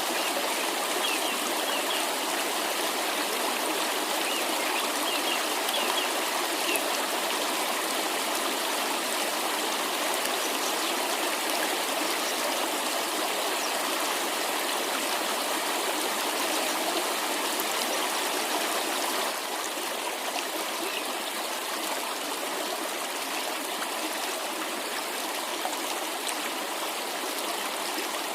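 Water of a mountain stream or cascade rushing and splashing in a steady, even flow.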